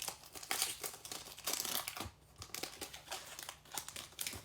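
Trading-card pack wrapper being torn open and crinkled by hand: dense crackling for about the first two seconds, then lighter rustles and taps as the cards are drawn out.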